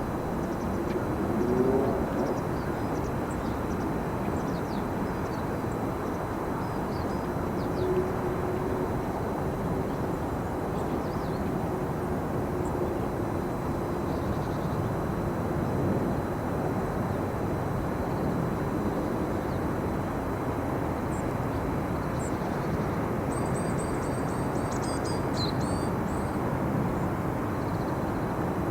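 Steady low outdoor rumble of distant motor noise, with a faint drawn-out hum partway through. A few faint high bird chirps come near the end.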